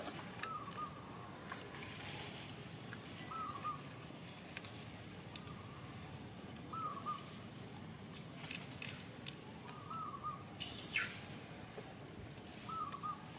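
A bird calling a short wavering note about every three seconds, five times, over steady outdoor background. Faint scattered clicks, with one brief scratchy rustle near the end as the loudest sound.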